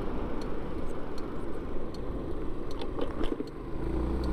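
Wind rushing over a helmet-mounted mic while riding a Yamaha Vino 125 scooter, with scattered light clicks that the rider puts down to a loose helmet strap popping. Near the end the wind eases and the scooter's single-cylinder engine comes through as a steady hum.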